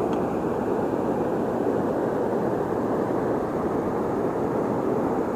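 Steady rushing of river water flowing past the shore, an even unbroken noise.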